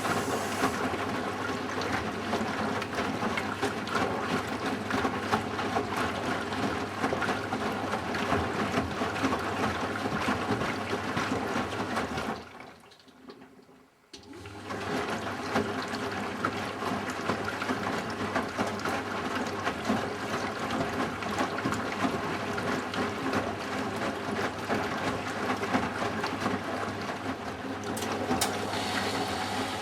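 Eudora Sparmeister 702 Classic washing machine in its rinse cycle: the drum turns, tumbling laundry through water with a motor hum. It pauses for about two seconds near the middle, then starts turning again, as the drum reverses direction.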